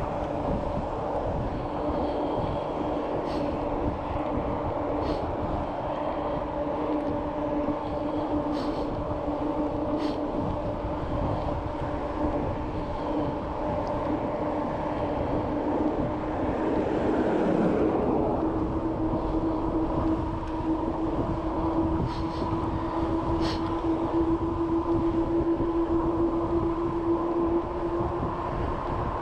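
Steady wind and road rumble from a bicycle ride, with a droning hum that runs throughout and a few light clicks or rattles. A louder swell with a sweep in pitch about halfway through.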